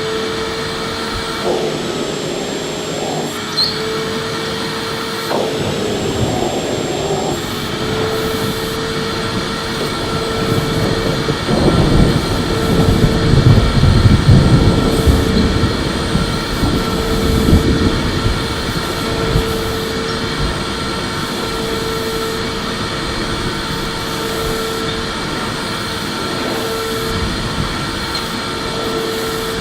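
Electric vacuum cleaner running steadily with a constant whine over its airflow noise. A deeper rumble swells in the middle for several seconds, then settles back.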